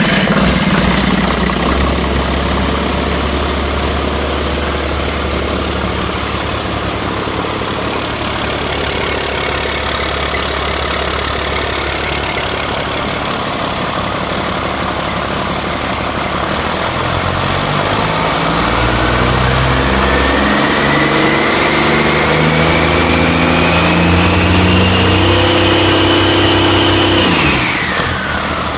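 2008 Caterpillar C7 ACERT inline-six diesel engine running at a steady low speed, then revving up in steps from about halfway through, with a whine that climbs with the revs. Near the end the throttle is released and the engine speed and the whine drop quickly.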